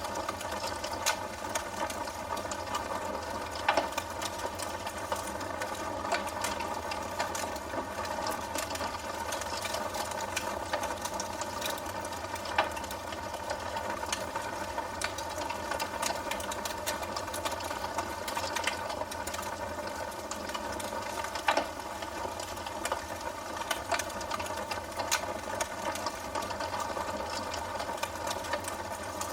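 Wood fire crackling in a fireplace: a steady hiss of burning with frequent small snaps and a few louder pops.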